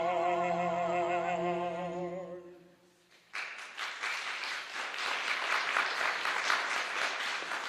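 An opera singer holds the song's last note with a wide vibrato over a sustained accompaniment, and it fades out about two and a half seconds in. After a brief hush, audience applause breaks out about three seconds in and carries on.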